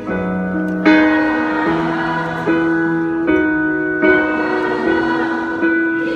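Slow live ballad: held keyboard chords with a sung melody above them, the notes changing about once a second.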